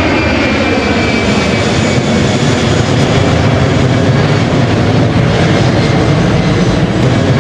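Airplane engine running with a steady, unbroken drone.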